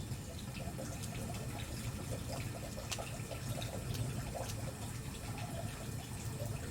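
Wood bonfire burning: a steady low rush of flames with scattered sharp crackles and pops from the burning firewood.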